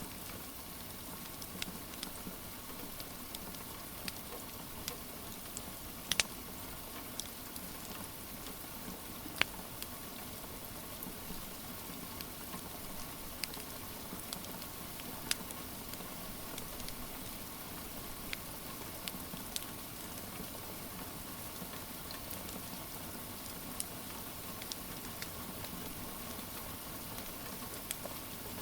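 Steady rain hiss mixed with a crackling wood fire: irregular sharp pops and snaps, a few of them louder than the rest.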